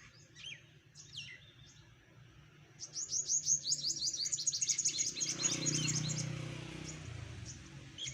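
Small birds chirping: a few scattered calls at first, then from about three seconds in a loud, rapid run of high chirps that thins out toward the end, over a low steady rumble in the second half.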